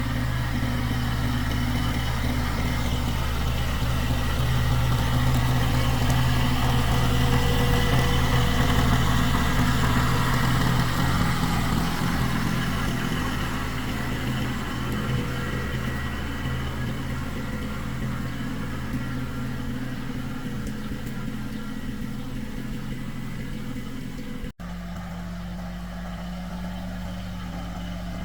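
Tractor engine running steadily, with a slight swell in loudness and then easing off. About three-quarters through, the sound breaks abruptly and comes back at a different, steadier engine note.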